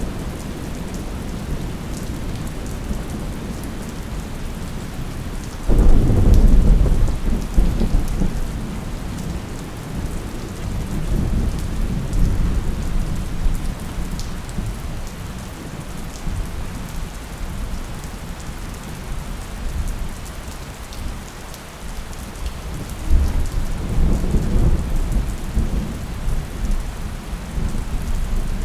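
Thunderstorm: steady rain with a sharp, deep clap of thunder about six seconds in that rumbles away over several seconds, and a second, softer roll of thunder near the end.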